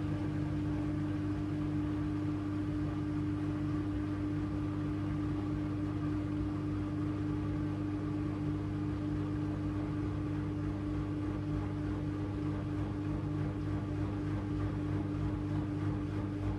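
AEG LR8FL160EX front-loading washing machine running at a steady high speed, most likely spinning: a constant hum with one steady whine above it and no tumbling rhythm.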